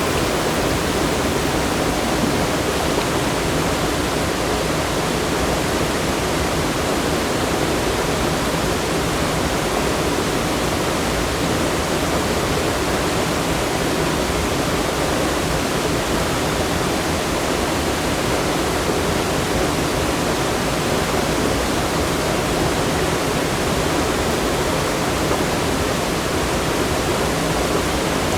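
Rushing water, a steady, loud and unbroken rush with no other events.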